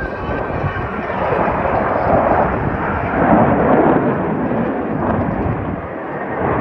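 Loud aircraft roar overhead, a rushing noise that swells twice and eases off near the end.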